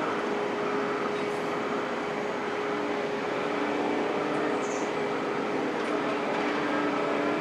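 Heavy construction machinery running steadily, a continuous mechanical drone with several steady humming tones.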